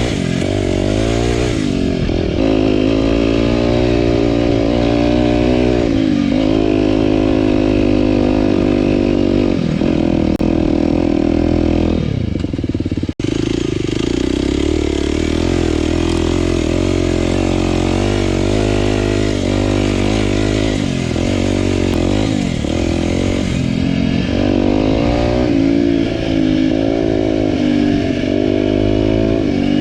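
Single-cylinder four-stroke trail motorcycle being ridden, its engine revving up and falling back again and again as it runs through the revs. The sound cuts out suddenly for a moment about 13 seconds in.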